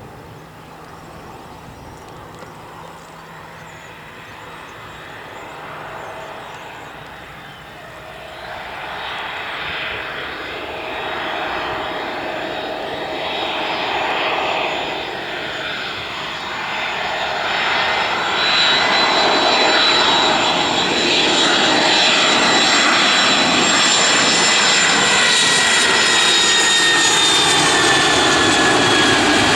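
Cargo aircraft's engines growing steadily louder as the plane approaches and passes close by. High whining tones in the engine noise drift slightly lower in pitch near the end.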